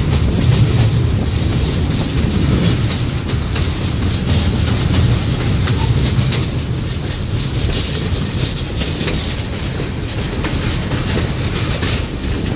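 Passenger train cars running on the rails across a steel truss bridge, heard from an open-sided car: a steady low rumble with light wheel clicks.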